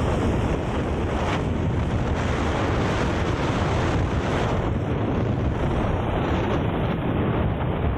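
Steady wind rush buffeting the microphone on a moving motorcycle, with the bike's road noise underneath.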